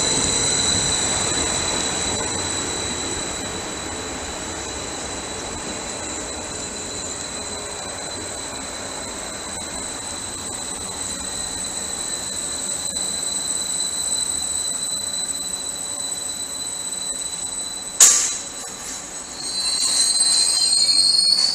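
Greater Anglia Class 755 multiple unit moving through the station with its wheels squealing in a steady high pitch over the rumble of the train. About eighteen seconds in there is a single sharp bang, and a rising whine follows near the end.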